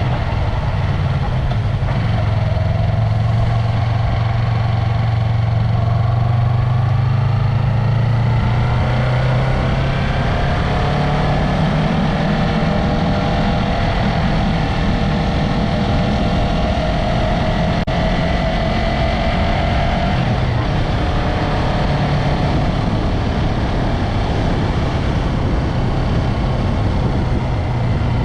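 Yamaha MT-03's parallel-twin engine and exhaust running under way. The pitch climbs about a third of the way in as the engine picks up revs, holds steady, then eases off about two-thirds of the way through.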